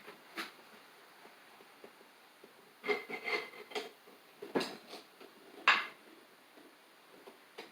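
Metal parts of a bench vise clinking and knocking as it is put back together. There is a single tap, then a cluster of clinks with a brief ring about three seconds in, and a few more knocks, the sharpest a couple of seconds later.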